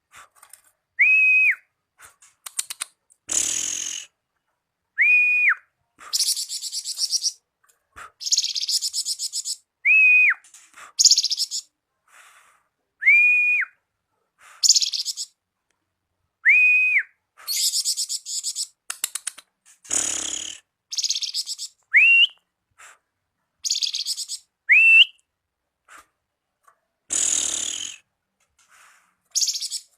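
Plamboyan bird song used as a masteran tutor recording: clear, single-pitched whistled notes that rise, hold and drop, repeated every three to five seconds, alternating with harsh buzzy chatter and high trills, with clean gaps between phrases.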